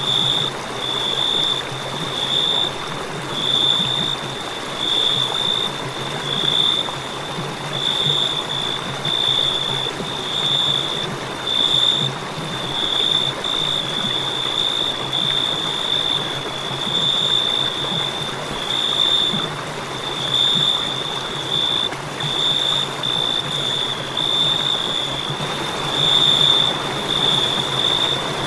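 Crickets chirping in a continuous high-pitched trill that swells and fades about once a second, over a steady hiss.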